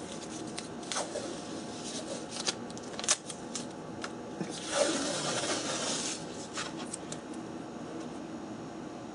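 Handling noises while working on a wooden toolbox: a scatter of light clicks and taps, then a rustling scrape lasting about a second and a half, about five seconds in.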